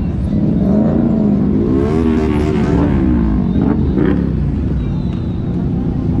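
Motorcycle engines running with a steady low rumble; about two seconds in one engine rises in pitch and falls back, as when revved or passing.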